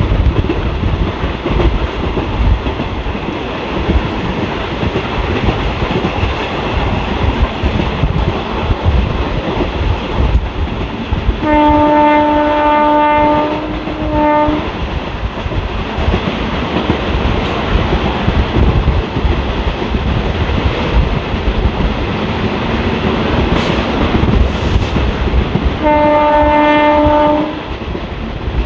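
Train running at speed heard from inside an ICF passenger coach: a steady rumble and wheel clatter over the rail joints. The WCAM3 electric locomotive's horn sounds twice: a long blast followed by a short toot about halfway through, then a blast of about a second and a half near the end.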